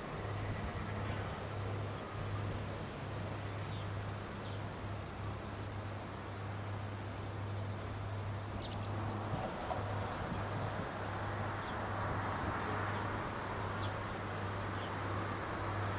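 Rice harvester's engine running steadily, a low hum under an even hiss, with a few faint high ticks or chirps partway through.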